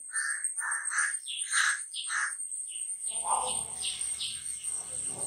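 Birds chirping in a quick run of short, repeated calls. In the second half a rougher scraping noise takes over, all over a steady high-pitched whine.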